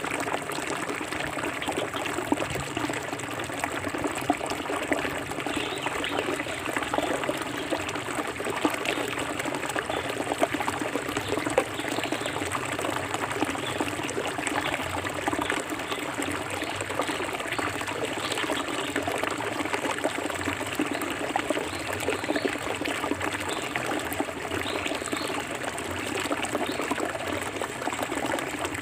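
Clear forest stream flowing and trickling steadily over rocks, with many small splashes.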